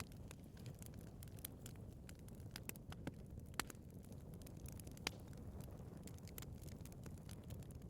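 Wood fire burning in a fireplace: a low, steady rumble of flames with scattered crackles and sharp pops of burning wood, the two loudest pops about three and a half and five seconds in.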